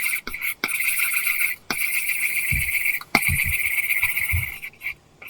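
Apple Pencil tip scratching across a paper-textured screen film on an iPad. There are a few quick short strokes, then three long continuous strokes of about a second each.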